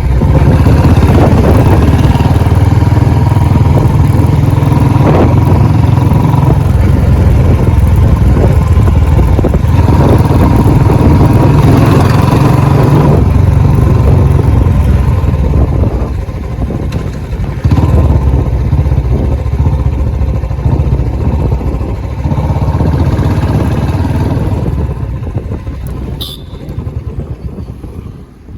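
Royal Enfield Bullet Electra's single-cylinder engine running loud and steady. The sound dips briefly a little past halfway, comes back, then fades away over the last few seconds.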